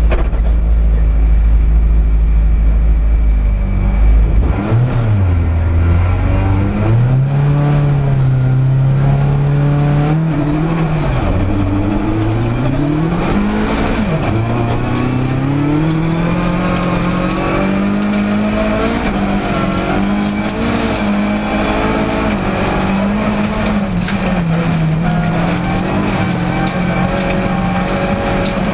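Opel Astra OPC rally car's four-cylinder engine heard from inside the cabin. It idles steadily for about four seconds, then revs up for the launch and runs up through the gears, the pitch climbing and dropping at each shift. Gravel crackles under the car.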